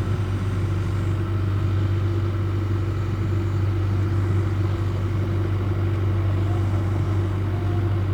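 Backhoe's diesel engine running steadily with a deep, even hum.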